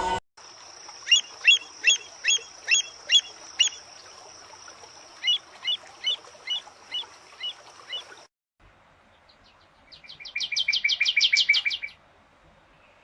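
Songbird calls: a bird gives series of short, sharply down-slurred chirps, about three a second, in two runs, over a steady high hiss, which cuts off suddenly past the middle. Then a different bird sings a fast, rapid trill lasting about two seconds.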